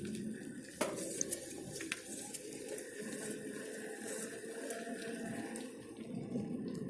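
A bicycle being ridden along a path: a steady rushing noise of tyres rolling and air over the microphone, with a few sharp clicks in the first two seconds.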